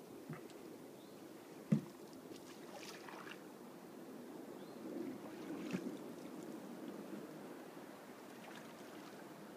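Small boat afloat, with water lapping and trickling around it and a few knocks on the boat, the loudest a sharp knock just under two seconds in.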